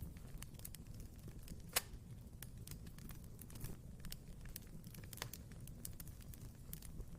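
Fire in a fireplace crackling steadily over a low rumble, with two louder pops, one about two seconds in and one near five seconds.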